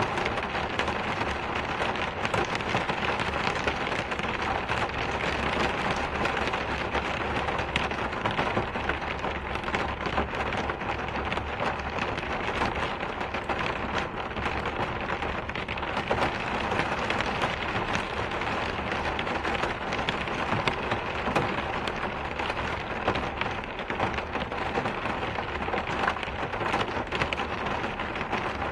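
Steady rain falling, a constant hiss with a dense patter of individual drops.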